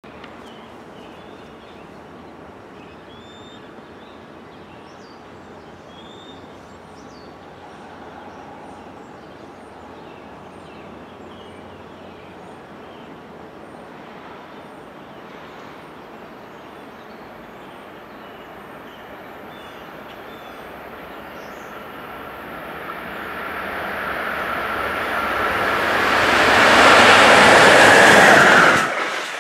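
Amtrak train led by an ACS-64 electric locomotive approaching at speed and passing close by. Its noise builds steadily over the last several seconds to a loud rush, then cuts off abruptly near the end.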